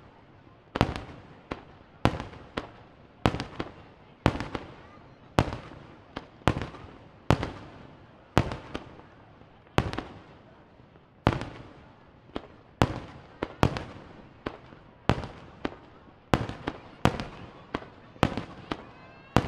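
Aerial firework shells bursting in quick succession, a sharp bang about every half second to a second, each fading away in an echoing tail.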